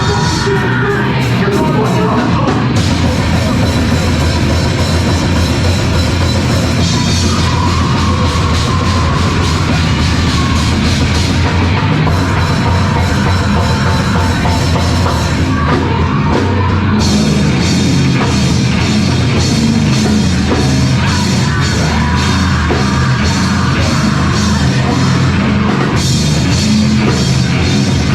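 Live heavy rock band playing loudly: a drum kit under a dense wall of distorted guitar and bass, shifting abruptly between sections several times.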